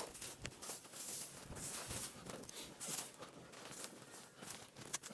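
Scattered rustling and crackling of hay and plastic bale net wrap being pulled and handled, a run of small irregular clicks.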